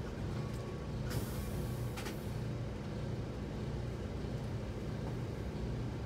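Amtrak Keystone passenger train heard from inside a coach as it pulls away from a station: a steady low rumble and hum, with a short hiss about a second in and a click near the two-second mark.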